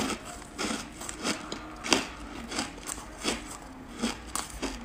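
Close-up chewing of a mouthful of crunchy buckwheat ice, a crisp crunch about every two-thirds of a second.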